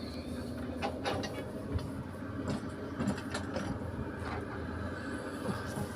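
A steady low machine hum with scattered small clicks and light knocks.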